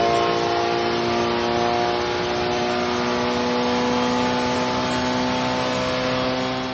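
750 Formula racing car's engine running under load on a rolling road, held at steady high revs with an even, unchanging note.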